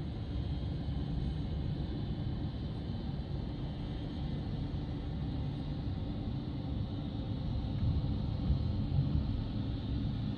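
Steady low rumble of jet airliner engines, with a faint high hiss above it, growing a little louder near the end.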